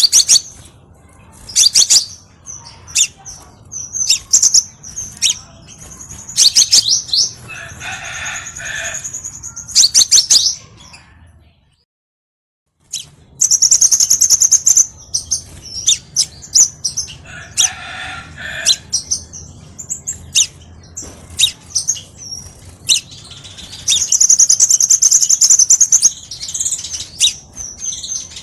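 Crimson sunbird singing: rapid, high-pitched chirps and trills in quick bursts, broken by a brief silence about twelve seconds in.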